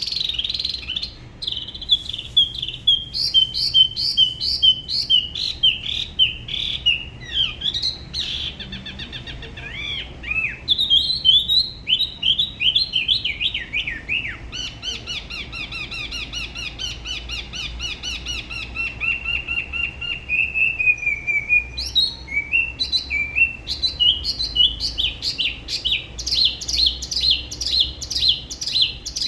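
Spot-throated babbler singing a long, varied solo song of rapid, high notes with hardly a pause, including a long run of quick repeated notes that slowly falls in pitch in the middle.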